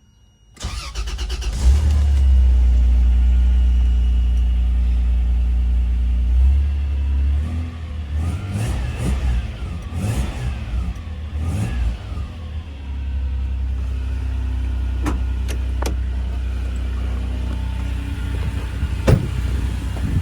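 1997 Toyota Land Cruiser's 4.5-litre inline-six started from cold: it cranks briefly, catches and runs at a steady fast idle. Between about 8 and 12 seconds in, the engine note rises and falls a few times, then it settles to a steady idle, with a few sharp clicks near the end.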